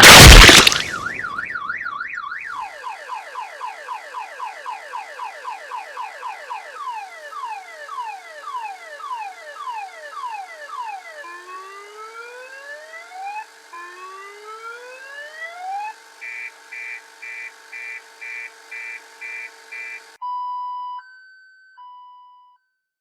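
A loud noisy burst, then a car alarm cycling through its tones: a fast warble, rapid falling sweeps, slower rising whoops, then quick beeps about twice a second, before it cuts off with a couple of short beeps near the end.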